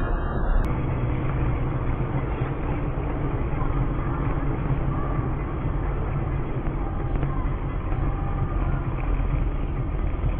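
Steady road and engine noise of a moving car, as picked up by a dashboard camera.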